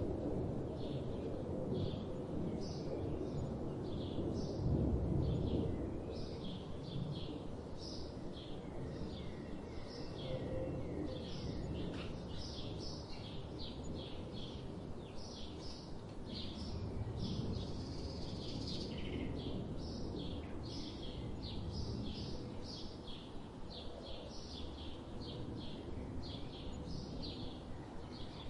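Small birds chirping in quick, repeated short calls over a steady low background noise.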